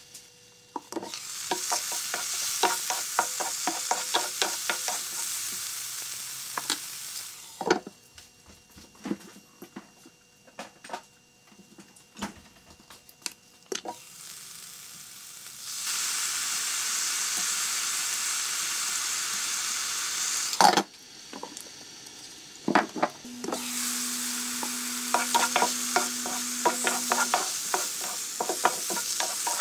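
Shiitake slices, bok choy and mushroom-stem nuggets sizzling in a nonstick frying pan, with the clicks and clatter of the food being stirred and shaken. The sizzle comes and goes in stretches, with a sharp knock about 21 seconds in.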